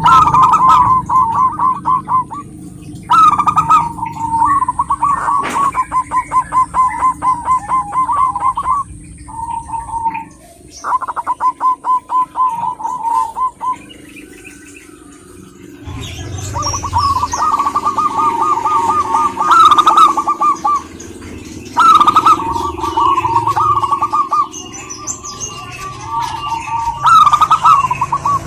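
Zebra dove (perkutut) singing: phrases of rapid staccato cooing notes, each a few seconds long and repeated with short breaks, with a longer pause about halfway through.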